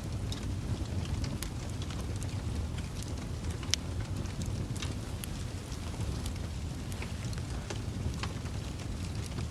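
Wood fire crackling: irregular sharp pops and snaps over a steady low rumble of burning, with one louder pop a little under four seconds in.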